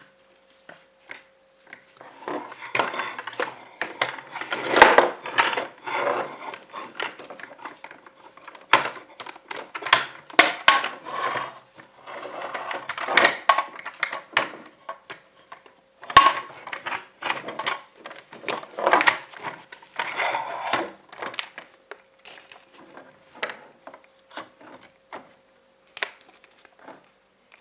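Irregular clicking and clattering of small hard objects being handled, coming in bursts and thinning out near the end, over a faint steady hum.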